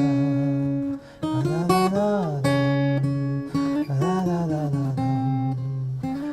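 Instrumental music led by acoustic guitar, held chords with some notes that bend up and down, and two brief breaks.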